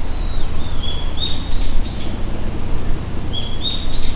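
Bird song: a phrase of short high notes, each a step higher than the last, sung twice over a steady low rumble.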